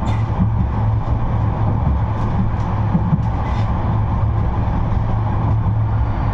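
A 71-628-02 tram running between stops: a steady low rumble and hum of the moving tram, with a few short, sharp clicks from the wheels and rails.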